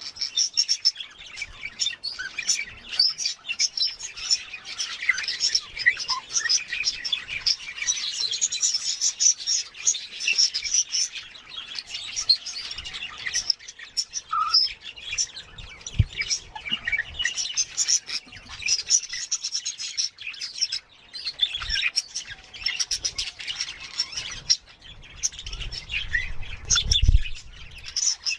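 Budgerigars chattering: a continuous stream of quick chirps and warbles. A few low bumps come near the end.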